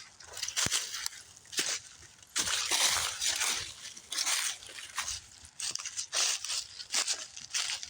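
Irregular crunching and rustling, a few crunches a second with short gaps, like footsteps through dry outdoor ground cover.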